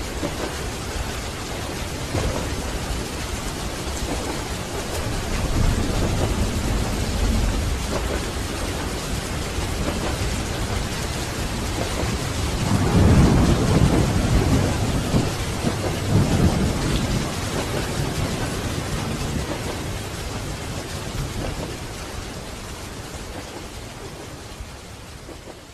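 Steady heavy rain with low rolling rumbles of thunder, the strongest about halfway through, the whole sound fading out near the end.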